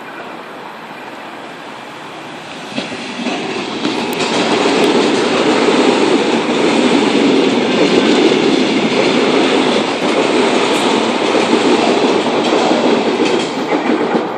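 Sydney Trains Tangara double-deck electric train running through the station without stopping: the rumble of wheels on rail builds about three seconds in and stays loud for some ten seconds as the carriages pass close by, with a few sharp clicks, easing slightly near the end.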